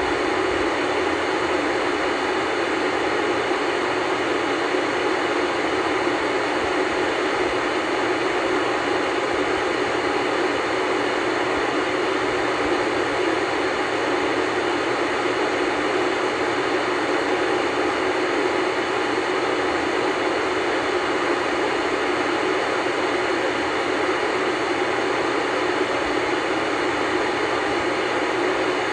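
Steady hiss of static from an old black-and-white tube TV's speaker, tuned to no station. It does not change.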